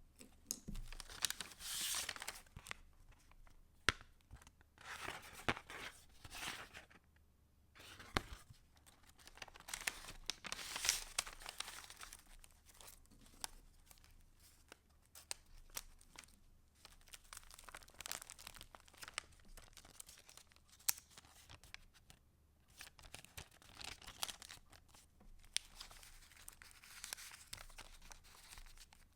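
Paper pages and paper ephemera of a handmade junk journal being turned and handled, rustling and crinkling in several swishes a few seconds apart, with small taps and clicks between.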